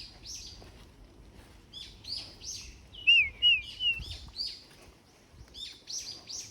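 Small songbirds calling: a run of short, high chirps that sweep downward, with a few wavy whistled notes about halfway through.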